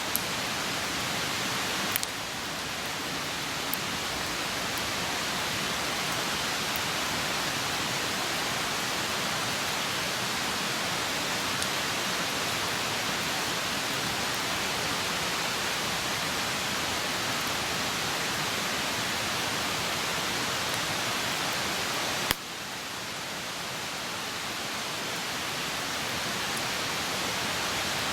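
Open wood campfire burning with a steady hiss and a few sharp crackles, the loudest about 22 seconds in.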